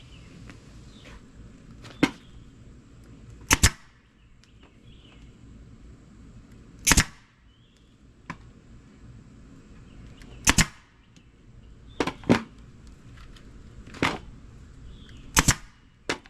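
Staple gun firing staples through upholstery vinyl into a wooden seat board: about nine sharp snaps, one every one to three seconds, some in quick pairs.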